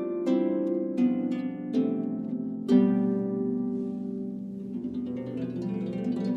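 Solo harp being played: single plucked notes ring out and fade, a strong one about halfway through, and then a run of softer, quicker notes near the end.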